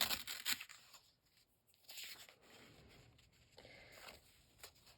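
Paper being handled: a quick crackling rustle of sheets at the start, then fainter rustles of paper being moved and a small tick near the end.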